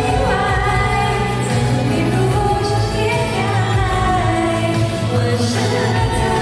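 Pop song performed live: sung vocals over a backing track with a steady bass line, played through a hall's PA system.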